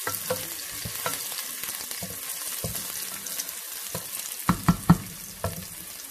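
Chopped garlic and onion sizzling in oil in a nonstick pot, stirred with a wooden spoon that scrapes and clicks against the pot. A few louder knocks come about four and a half seconds in.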